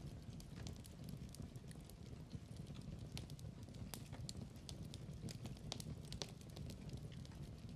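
Wood fire burning in a fireplace: irregular sharp crackles and pops over a low steady rumble of flames.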